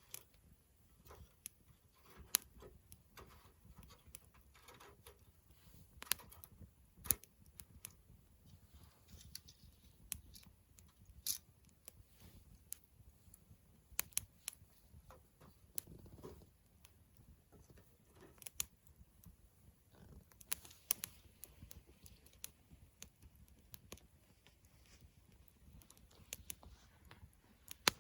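Wood campfire crackling, with irregular sharp pops and snaps of burning wood, a few of them louder, over a low steady rumble of the flames.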